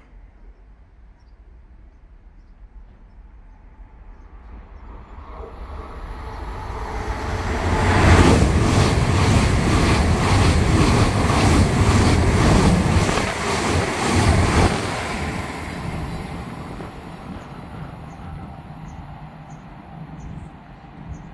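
ICE 4 high-speed train passing through a station at speed: its rumble builds, then a loud rush of wheels and air with a rapid regular clatter for about seven seconds, and fades away as it recedes.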